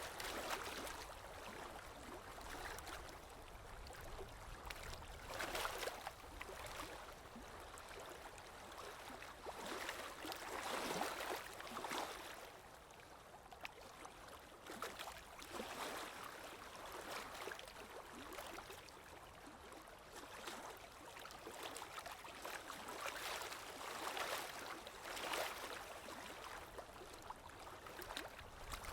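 Ocean waves washing in, a steady hiss of water that swells into a surge every few seconds and then falls back.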